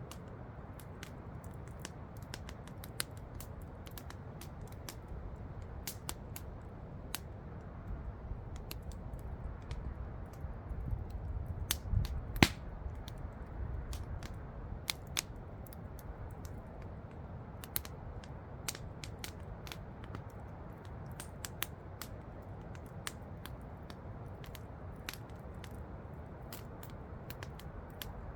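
Campfire crackling, with frequent irregular sharp pops over a steady low rush of falling water; the loudest pop comes about halfway through.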